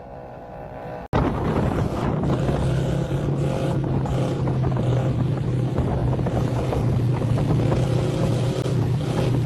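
After a sudden cut about a second in, a steady engine drone with a constant low hum, under heavy wind rushing over the microphone.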